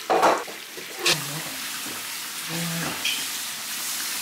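Onion-and-pepper stew base sizzling in oil in a pot as deboned mackerel is added and stirred in with a wooden spoon. There is a loud burst just after the start and a shorter one about a second in, then a steady sizzle.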